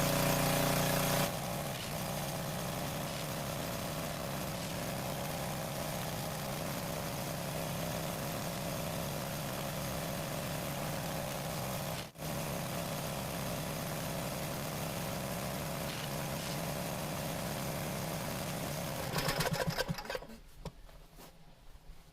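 An engine runs steadily, with a sudden change in its sound about a second in and a brief dropout about halfway. Near the end there is a burst of rattling knocks, then the sound falls much quieter.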